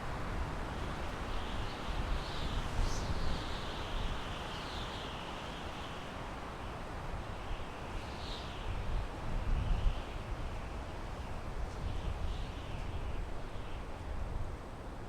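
Wind blowing through pine trees: a steady rushing with gusts that swell and ease, and a few short high bird chirps now and then.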